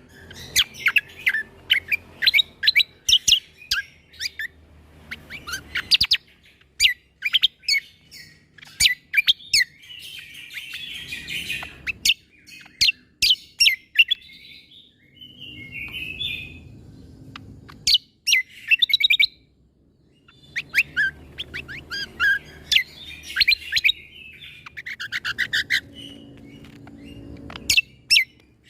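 Cucak kombo (kecial kombok) singing in quick bursts of sharp, clipped notes, its 'shot' (tembakan) song, broken by short pauses.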